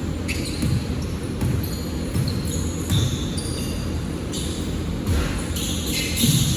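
Basketball game noise in a gym: a ball bouncing on the court, with short high squeaks of sneakers scattered throughout.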